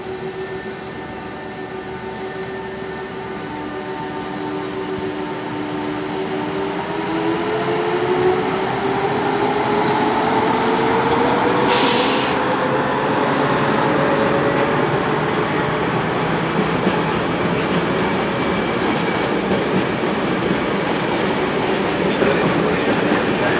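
SNCF class BB 36000 (E436) electric locomotive hauling a freight train of container flat wagons, its traction motors whining and rising steadily in pitch as it gathers speed, growing louder as it comes past. About halfway through there is a short hiss, and the rolling and clatter of the loaded wagons takes over.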